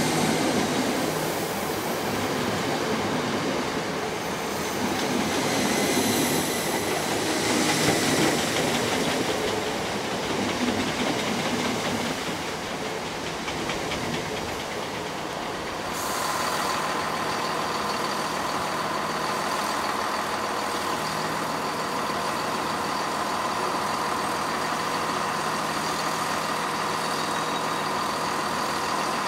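Greater Anglia Class 317 electric multiple unit passing close by at speed: wheels rumbling and clattering over the rail joints, with a rushing roar and some ringing. After a sudden change about two-thirds of the way in, there is a steady electrical hum with a constant high whine from a Class 317 at the platform.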